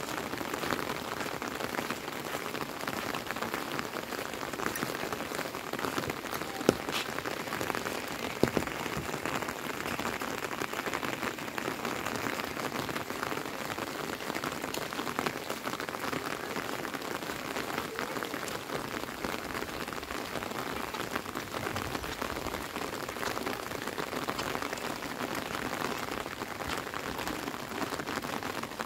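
Steady rain falling on an umbrella held overhead and on the wet road and grass around, an even hiss throughout, with two sharper drop taps about seven and eight and a half seconds in.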